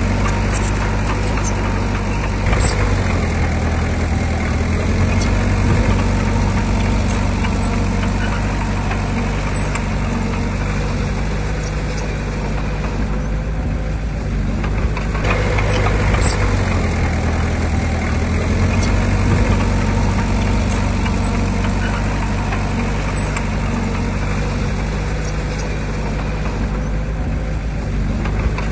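Heavy diesel engine of earthmoving machinery running steadily, swelling louder a couple of times as it takes load, with scattered sharp clicks over it.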